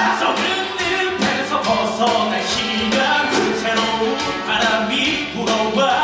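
Musical theatre cast singing a rock number live with a band, drums keeping a steady beat.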